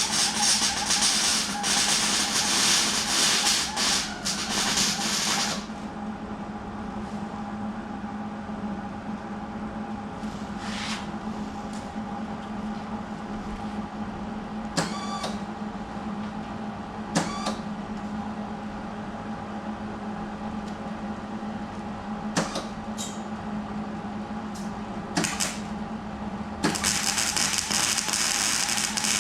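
Electric arc welding on steel: a long crackling weld run of about five seconds at the start and another short run near the end, over a steady machine hum. Several single sharp clicks or taps fall in the gap between.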